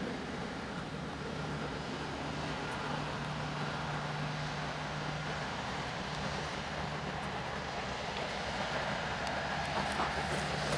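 Jet airliner engines running steadily, a continuous rumble and hiss with a low steady hum, growing slightly louder near the end.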